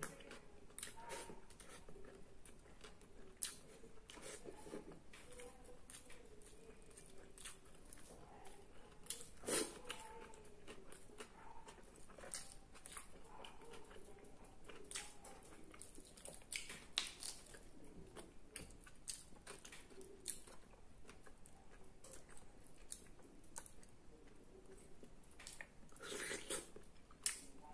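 A person eating roasted chicken and rice by hand: faint chewing and mouth smacks with scattered small clicks, a few louder ones about ten seconds in and near the end.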